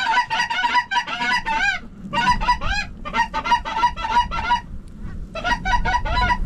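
Goose honking: many rapid, overlapping calls in bursts, with short breaks about two seconds in and again around five seconds.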